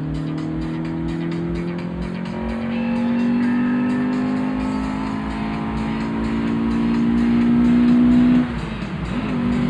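Honda CRX VTEC's 1.6-litre B16A four-cylinder engine, heard from inside the cabin, pulling steadily up through the revs under acceleration. About eight and a half seconds in the revs drop abruptly with a gear change, then climb again.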